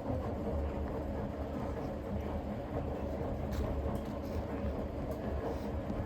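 Ipso commercial washing machine running with a steady low rumble from its drum and motor, with a few light clicks. The drum bearings are worn and getting louder, in the owner's words, though the machine still performs well.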